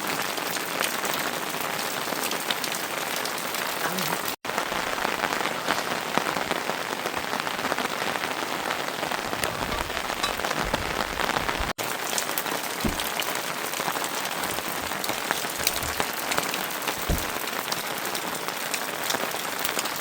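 Steady rain falling, with many separate drops pattering, briefly cut off twice, about four and twelve seconds in.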